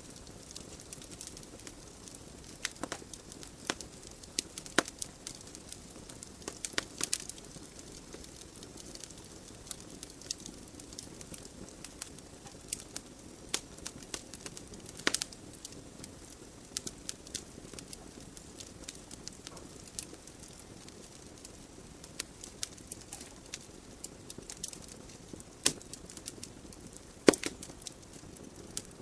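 Wood fire burning in a fireplace: logs crackling and popping in irregular sharp snaps over a steady low hiss of flame, with one louder pop near the end.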